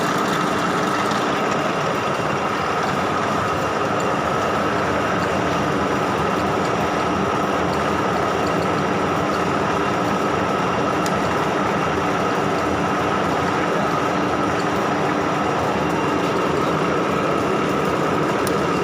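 Wanderer Model 31 NU thread milling machine running steadily, a dense mechanical clatter with a constant whine over it.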